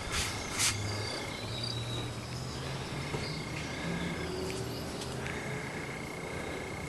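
Outdoor ambience with an insect's steady high-pitched trill that stops and starts several times, and two short knocks near the start.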